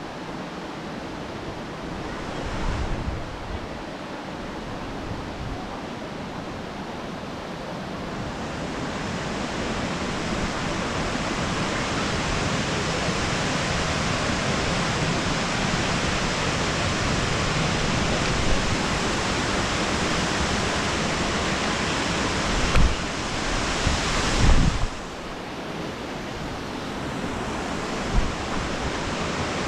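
Steady rush of water from a mountain waterfall and its cascades, growing louder about a third of the way in. A few brief low thumps of wind or handling on the microphone come near the end.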